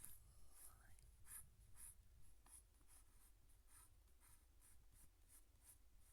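Faint, quick strokes of a drawing tool scratching on sketchbook paper, about two to three strokes a second.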